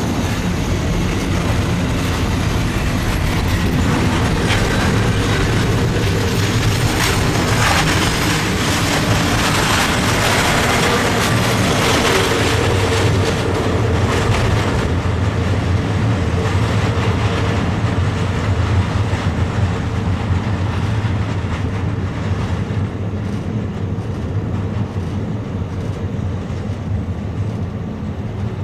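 A passenger train running on rails, a steady heavy rumble with rail clatter; the brighter, higher part of the sound fades about halfway through and the whole eases off a little toward the end.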